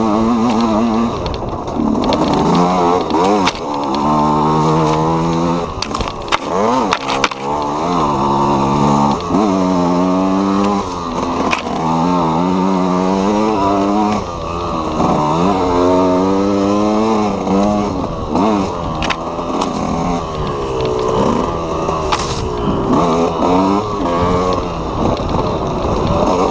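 KTM EXC 125's two-stroke single-cylinder enduro engine being ridden hard, its pitch climbing and dropping again every second or two as the throttle is opened and closed. A few sharp knocks come around six to seven seconds in.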